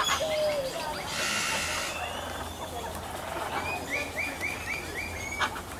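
Aviary birds calling: a short low call at the start, a harsh squawk about a second in, scattered chirps, and a run of five quick, evenly spaced chirps near the end.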